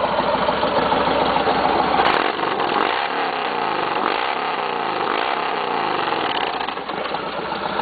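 Yamaha Road Star Warrior's V-twin engine running at idle through a new aftermarket exhaust with 2.5-inch piping and 4-inch flat-back tips, with a steady rumble.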